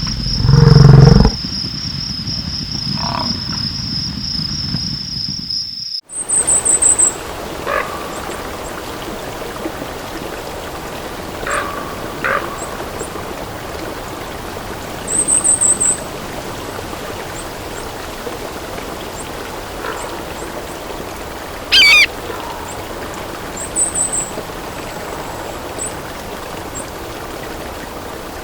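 A steady high-pitched insect trill, with a loud low thump about a second in. Then the sound changes abruptly to a steady rushing background with short, very high bird chirps several times and one louder sweeping call past the middle.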